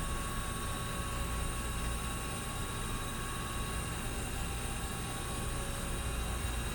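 A steady machine hum: a low drone under an even hiss with a faint steady whine, unchanging throughout.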